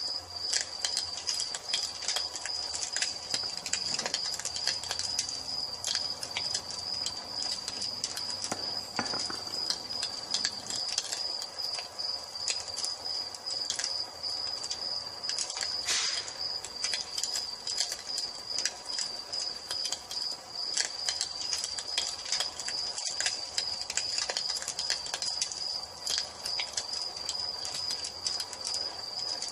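Wood fire crackling with frequent small pops and one louder pop about halfway through, over a cricket's steady, unbroken high-pitched trill.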